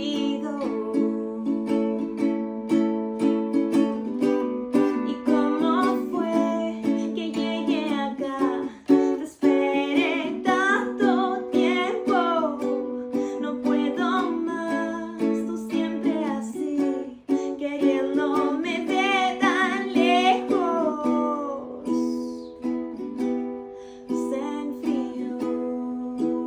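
Solo acoustic song: a woman's voice singing long, wavering, wordless-sounding notes over steady plucked-string accompaniment, the voice dropping out near the end while the strings carry on.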